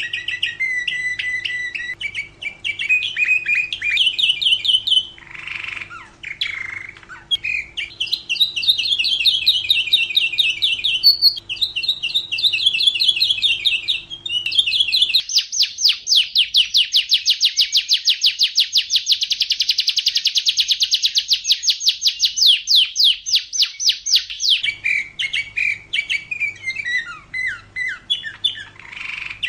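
Domestic canary singing a run of rapid trilled phrases. The middle of the song is a long, very fast, even trill.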